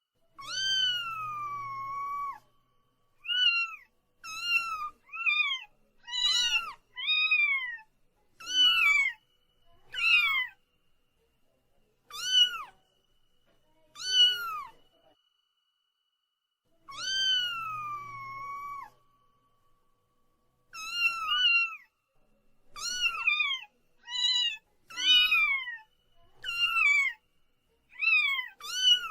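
Cat meowing repeatedly in high-pitched calls. A long drawn-out meow opens the run, shorter meows follow with brief silent gaps, and a second long meow is followed by a quick series of short meows near the end.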